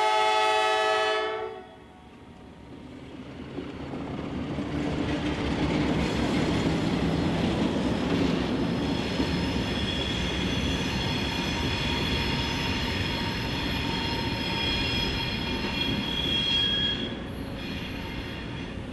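Diesel locomotive horn sounding a chord that cuts off about a second and a half in. Then the Alco C420 locomotives move past with a building engine rumble and a steady high-pitched wheel squeal, fading near the end.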